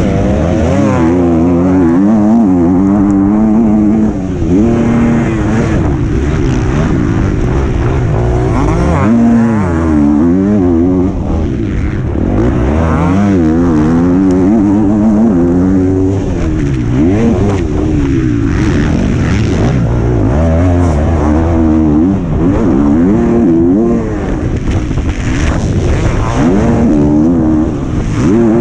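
125cc motocross bike engine racing on a dirt track, heard from on board: the revs rise and fall over and over as the rider accelerates, shifts and backs off through corners and jumps, with wind and track noise.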